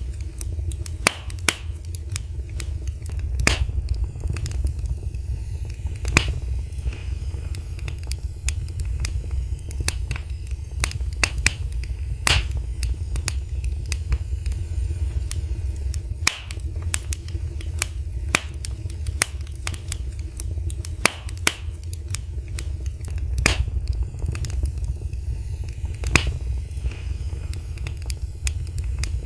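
Wood fire crackling and popping: irregular sharp snaps several times a second, a few louder pops among them, over a steady low rumble of the flames.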